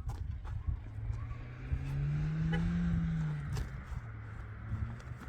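A motor engine running with a steady low hum, rising in pitch and loudness for about two seconds near the middle, then settling back.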